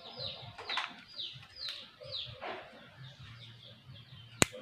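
A bird chirping in the background, a series of short notes each falling in pitch, about two a second, fading after the first half. A single sharp click near the end.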